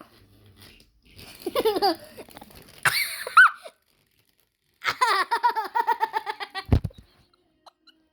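A young child laughing in three bouts, the last and longest a run of quick giggling pulses, which ends in a short thump.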